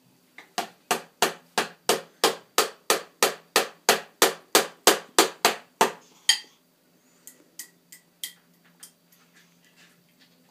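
Rapid, evenly spaced knocking on a plate, about three knocks a second for roughly five seconds, then a few faint scattered taps.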